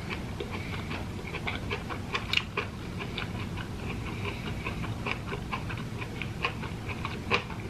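Close-up chewing of jackfruit flesh: irregular mouth clicks and smacks, a few a second, with two louder smacks, about two seconds in and near the end.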